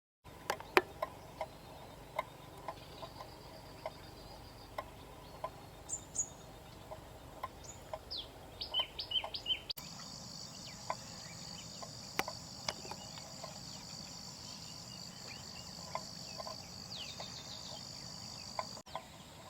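Birds chirping in short, scattered calls and clicks. About ten seconds in, the sound changes abruptly to a steady, high-pitched insect trill with a few chirps over it.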